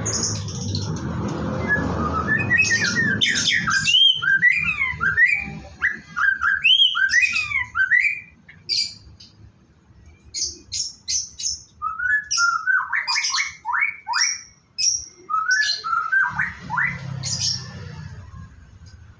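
White-rumped shama (murai batu) singing: a run of varied whistled phrases sliding up and down in pitch, mixed with short sharp high notes, with a brief lull partway through. A low rumble sits under the song at the start and near the end.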